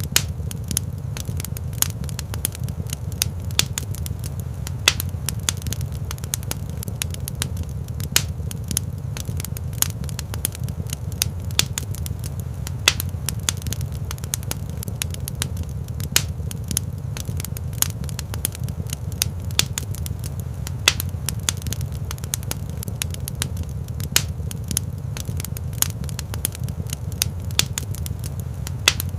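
Fire crackling in a fireplace: many sharp, irregular pops and snaps over a steady low rumble.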